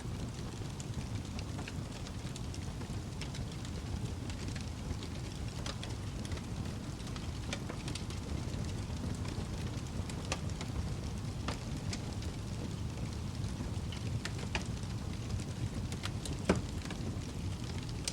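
Wood fire in a fireplace crackling: a steady low rush of burning with scattered small pops, and one louder pop near the end.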